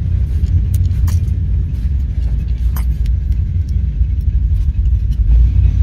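Steady loud low rumble, with a few light metallic clinks from a screwdriver prying at a stuck cylinder head on a moped engine.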